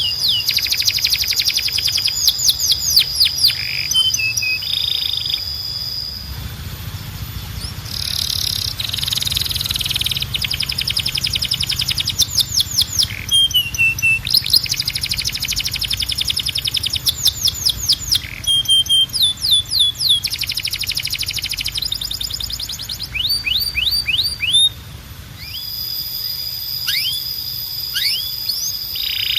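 Canary singing a long continuous song. Fast rolls of repeated downward-sliding notes alternate with long held high whistles and short lower notes.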